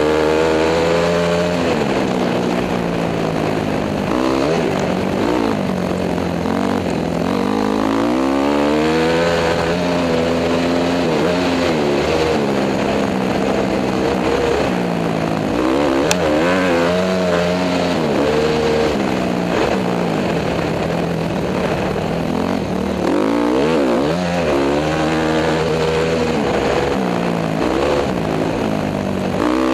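Honda CRF250 dirt bike's single-cylinder four-stroke engine being ridden, revving up and dropping back again and again through the gears.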